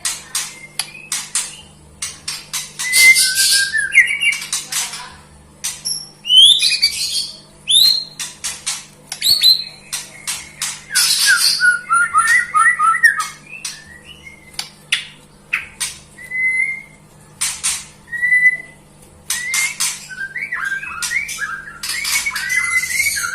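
White-rumped shama (murai batu) singing a varied song: harsh rasping notes alternating with clear whistled glides and quick runs of short notes.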